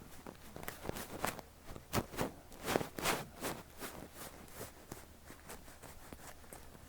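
A fluffy down ear brush swept and rubbed over the ear, making a string of soft, close rustling strokes that are strongest about two to three seconds in.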